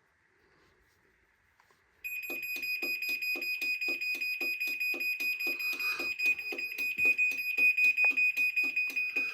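A Craftsman garage door opener's timer-to-close warning beeper sounding, a loud, shrill, rapidly pulsing tone that starts suddenly about two seconds in, warning that the door is about to close automatically.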